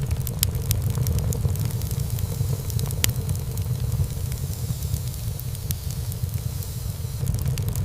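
Wood fire in a fireplace burning over a steady low rumble, with many small irregular crackles and pops and one louder pop about three seconds in.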